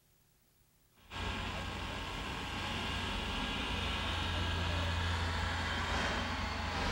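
Train running: a steady rumble with a deep hum that starts suddenly about a second in and swells slightly.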